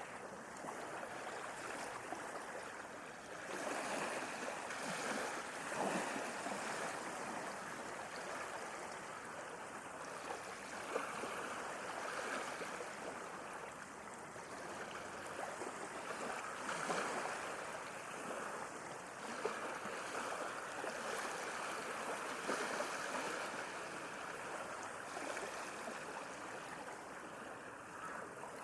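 Sea waves washing in, a continuous rushing hiss that swells louder every few seconds as each wave breaks and recedes.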